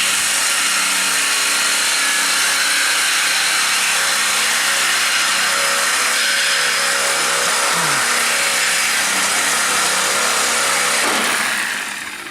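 A power cutting tool running steadily as it cuts through the car's steel body, winding down near the end.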